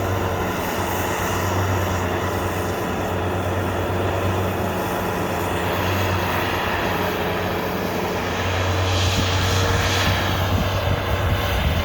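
Bobcat skid-steer loader's engine running steadily as the machine works in deep snow, with a steady low hum throughout and a brief rise in level with added hiss in the last few seconds.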